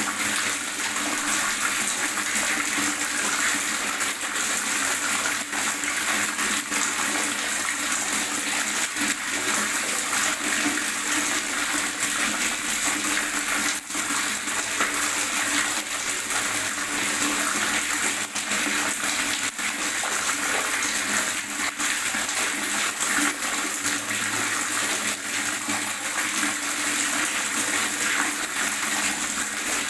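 Steady gurgling of running water, an even, unbroken rush with small flickers of splashing throughout.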